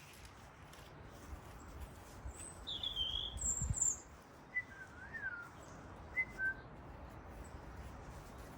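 Small garden birds chirping: a cluster of high, quick chirps a few seconds in, then several short whistled notes, over a low rumble of wind.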